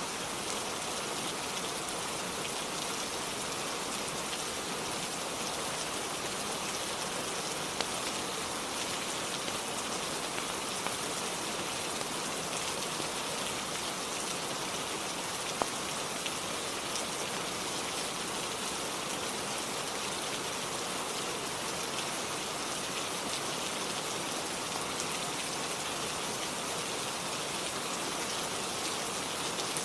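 Steady rain falling on a surface, an even hiss that does not let up, with a few faint single clicks.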